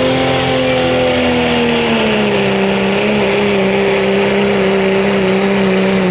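Diesel 4WD pickup engine running hard at full load while pulling a weight-transfer sled, a steady loud drone whose pitch sags slightly about two seconds in and then holds.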